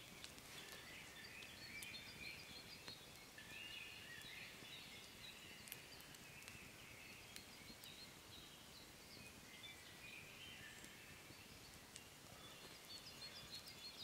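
Faint birdsong: many short chirping notes over a quiet background, with an occasional small click.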